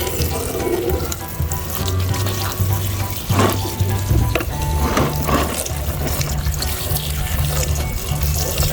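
Water running and splashing as muddy toy vehicles are washed, with a few louder splashes around the middle, over background music with a steady bass beat.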